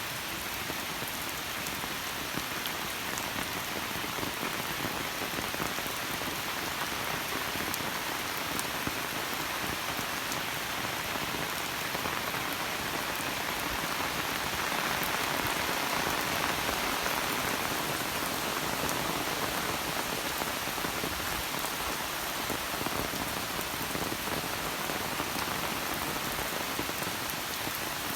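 Steady rain falling, with scattered drops ticking, growing a little heavier about halfway through.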